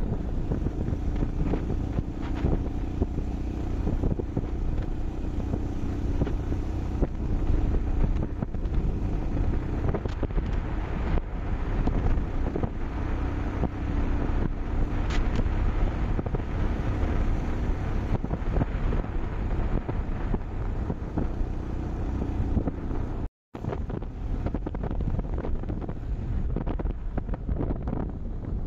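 Wind buffeting the microphone on a moving motorcycle, with the engine's steady note running underneath; the sound drops out for a split second about three-quarters of the way through.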